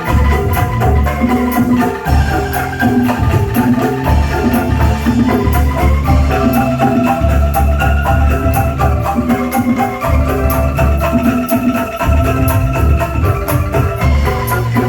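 Angklung ensemble playing a tune through a loud PA sound system: bamboo melody notes over a heavy pulsing bass, with a fast, steady ticking percussion beat.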